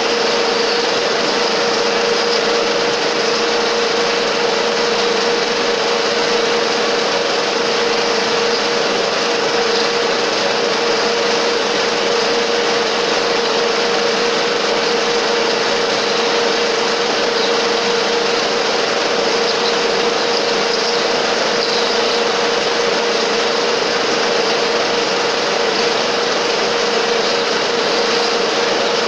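Metal-turning lathe running steadily while a 24 mm drill bores into the workpiece with coolant emulsion flowing: an even hiss with one steady hum throughout.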